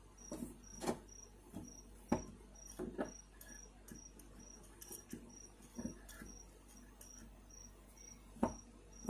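Scattered light clicks and taps from handling the fan's motor parts while oiling them, over a cricket chirping steadily in the background with a high, even chirp about two or three times a second.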